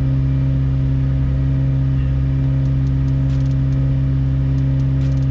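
McLaren 765LT's twin-turbo V8 running at a steady, unchanging note, held at 2000 rpm by the car's oil-level check routine while its timer counts down to the level reading.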